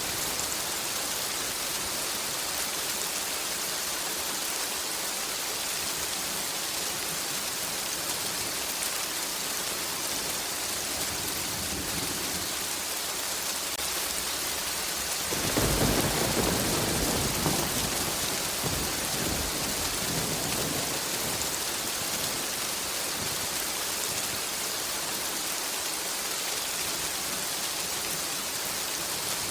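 Steady rain falling, with a low roll of thunder that comes in suddenly about halfway through and dies away over several seconds.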